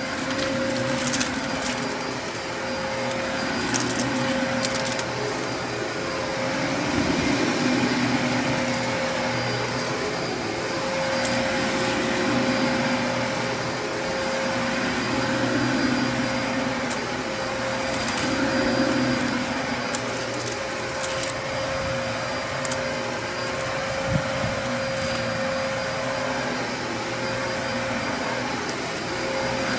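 Dyson DC33 upright vacuum running with a steady motor whine, its sound swelling and easing every two to three seconds, with scattered clicks and crackles of debris being sucked up.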